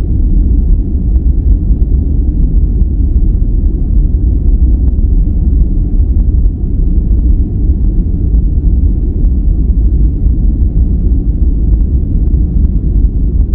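A steady, deep rushing noise of the kind played for sleep. It sits low, with little hiss at the top, so it is darker than true white noise, and it does not change.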